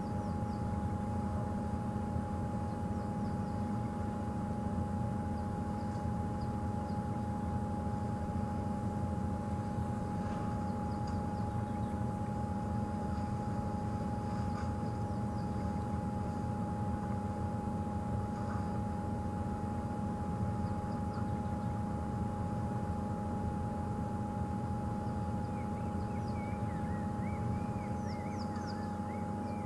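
Safari game-drive vehicle's engine running with a steady low rumble and a constant thin whine over it, with a few bird chirps near the end.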